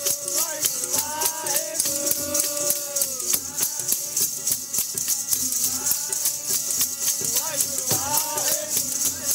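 Sikh devotional kirtan: a sung melody over a rattling percussion instrument keeping an even, quick beat.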